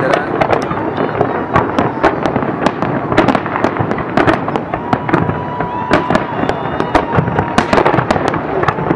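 Large aerial fireworks display: a dense run of bangs and crackling bursts, many a second.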